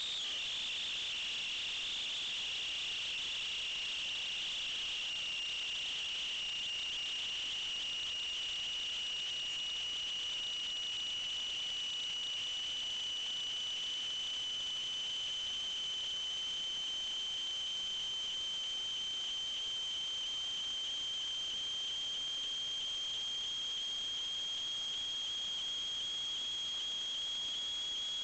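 A steady high-pitched whine that drops slightly in pitch about a second in, then slowly rises in pitch.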